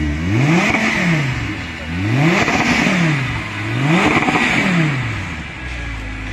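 Audi R8's engine, parked on a display stand, revved three times in quick succession. Each rev rises sharply in pitch and falls back to a steady idle, with the revs about a second and a half apart.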